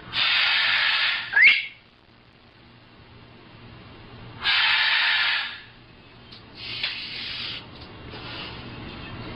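Pet parrot making two long hissing noises about four seconds apart, each lasting about a second, with a short sharp rising whistle just after the first and fainter hisses near the end.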